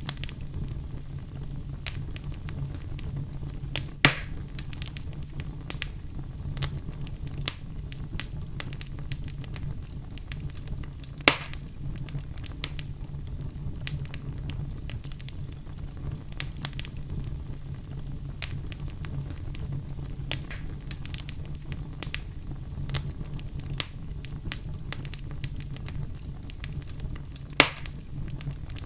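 Fire in a fireplace crackling: a steady low rumble under constant small crackles, with three sharp, louder pops, about four seconds in, around eleven seconds, and near the end.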